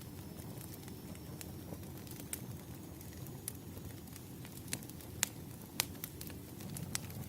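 Wood fire burning: a steady low rumble with scattered sharp crackles and pops, the two loudest a little past the middle.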